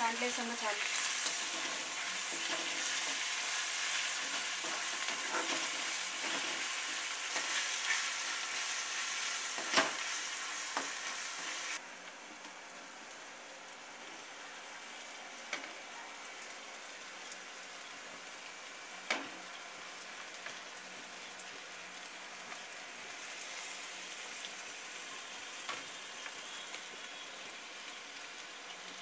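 Chopped onions and green chillies sizzling in hot oil in a black kadai, stirred with a spatula, with a few clicks against the pan. About twelve seconds in the sizzle drops suddenly to a quieter, steady frying as masala-coated murrel fish are laid in the pan, with a few sharp clicks.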